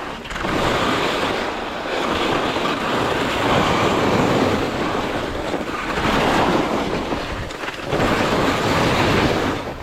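Skis scraping and carving over firm, chalky snow, a loud rushing noise that swells and eases with each turn every couple of seconds, mixed with wind on the microphone.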